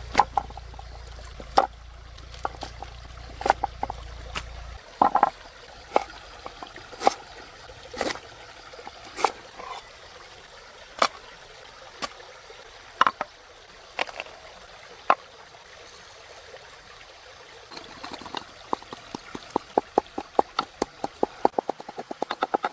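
Knife chopping on a cutting board: single cuts about once a second, speeding up into rapid chopping near the end.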